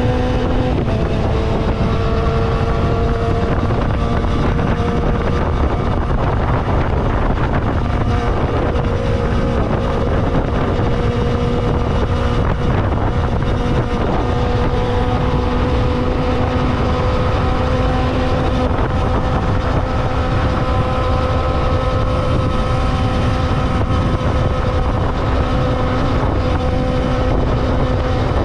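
Kawasaki motorcycle engine running at a fairly steady cruising speed, its pitch dipping and recovering slightly a couple of times, under heavy wind noise on the microphone.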